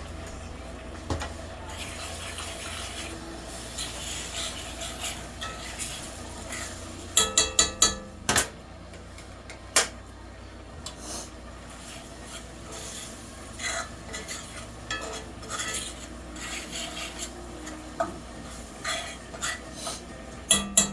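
A metal utensil stirring and scraping in a cooking pan, with a quick run of four or five sharp ringing clinks against the pan about seven seconds in and scattered single taps after that.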